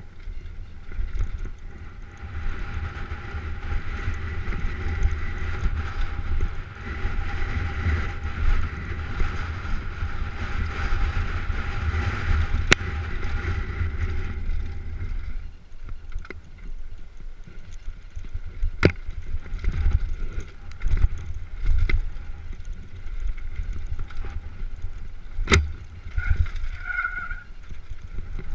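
Downhill mountain bike run, with wind buffeting the camera microphone and the bike rattling over the trail. A steady whine runs through the first half, and there are a few sharp knocks, about a third of the way in, about two-thirds in and near the end.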